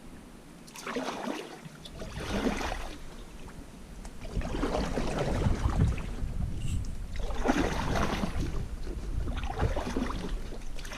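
Kayak paddle strokes in the water, a splashing swish every two seconds or so, over a low rumble of wind on the microphone.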